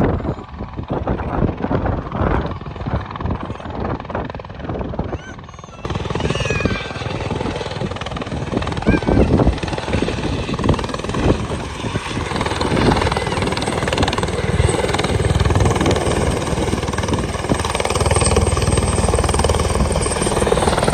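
Helicopter running, with rotor and engine noise. For the first few seconds it is choppy and uneven. About six seconds in it changes abruptly to a steadier, fuller drone that grows louder toward the end.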